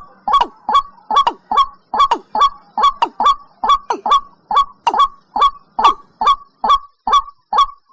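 Watercock calling: a fast, even run of repeated gulping notes, about two to three a second, each a sharp click that slides quickly down in pitch.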